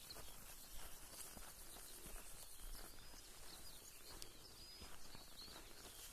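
Faint open-country ambience: small birds chirping in the distance with short, high calls scattered throughout, over a low rumble.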